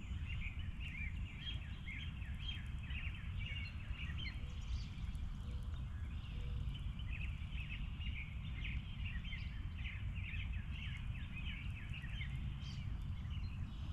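Birds chirping in a steady run of short calls over a low, steady rumble.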